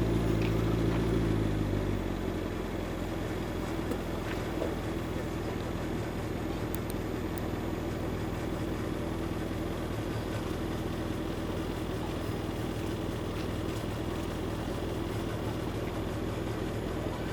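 A red McLaren sports car's engine running at low revs while the car is manoeuvred slowly. It is louder at first and eases off about two seconds in, then settles to a steady idle.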